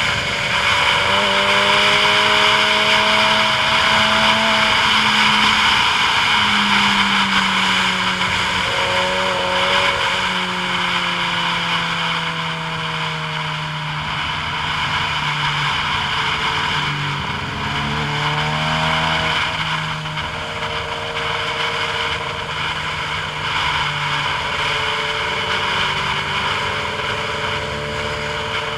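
Motor vehicle on the move: a steady engine hum whose pitch drifts slowly up and down, with short pitch glides a few times, under a constant rush of wind and road noise.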